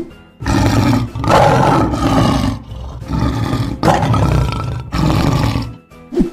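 Lion roaring: a run of about five long roars, one after another, each lasting around a second.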